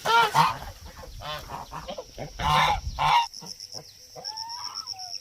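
Domestic waterfowl honking, with a run of loud calls in the first three seconds, then quieter, with a few thinner gliding calls near the end.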